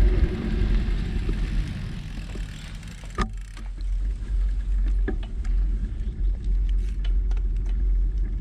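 Steady low rumble, with a sharp click about three seconds in and a few lighter ticks after it.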